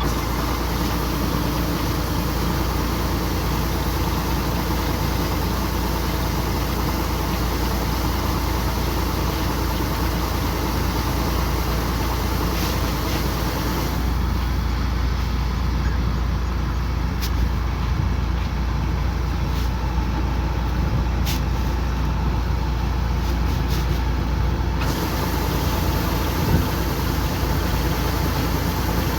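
Kubota combine harvester running steadily under load, a continuous low engine drone with machinery noise above it. For about ten seconds in the middle the high hiss drops away, with a few faint clicks.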